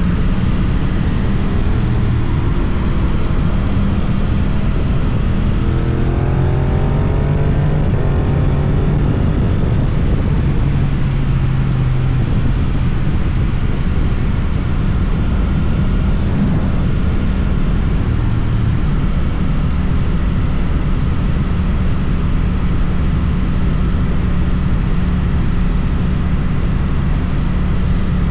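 Suzuki GSX-8TT motorcycle's parallel-twin engine running through an Akrapovic exhaust while riding, with wind noise. About a quarter of the way in, the engine note climbs as the bike accelerates, then settles back to a steady cruise.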